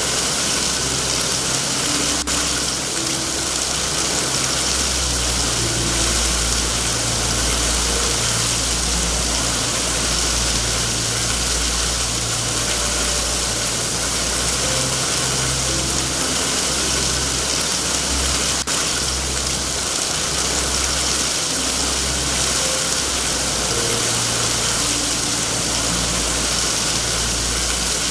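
Steady heavy rain hiss over a low, wavering rumble, with two single sharp pops from a log fire, one about two seconds in and one about two-thirds of the way through.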